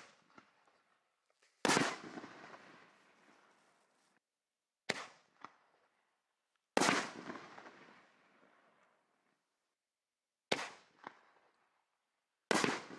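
Consumer reloadable artillery shells (60 gram canister shells) going off. Five sharp bangs come a few seconds apart, each trailing off over a second or two, and some are followed by a smaller second pop about half a second later.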